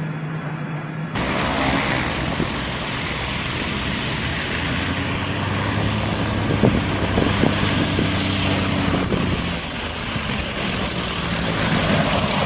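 An engine running with a steady low hum under a loud rushing noise, with a few sharp knocks in the middle. The sound changes abruptly about a second in.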